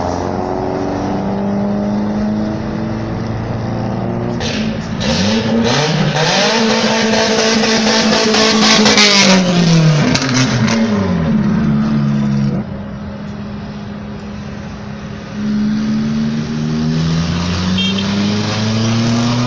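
Car engine revving: it climbs about five seconds in, holds high revs with a loud rush of exhaust for several seconds, then drops back to idle. Other engines run steadily around it.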